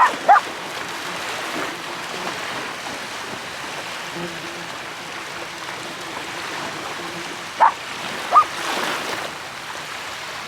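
Steady wash of sea surf, with a dog barking twice at the start and twice more about eight seconds in.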